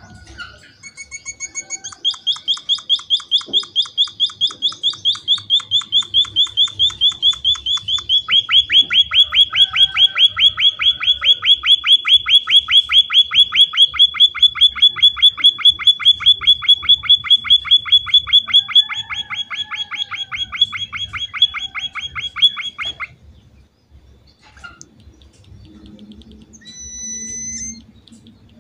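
An emprit (munia) calls vigorously in a fast, even run of sharp chirps, about six a second, for some twenty seconds. The run changes pitch slightly partway through and cuts off suddenly. A few short, clear whistle notes follow near the end.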